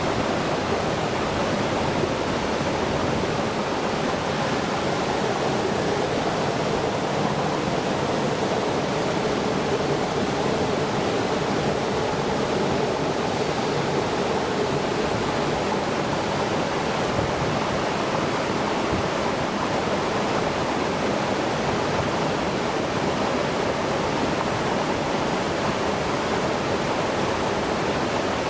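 Steady rush of flowing water, an even, unbroken noise with no changes.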